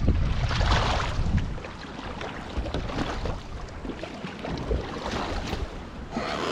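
Single-blade paddle strokes swishing and splashing through lake water, with two stronger strokes, one near the start and one near the end. Wind buffets the microphone, heaviest in the first second or so.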